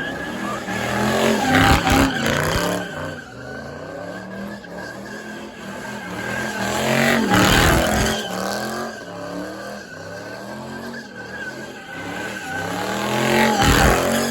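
Car doing donuts with its engine revving and its tires squealing steadily. The sound swells three times, about every six seconds, as the car circles close.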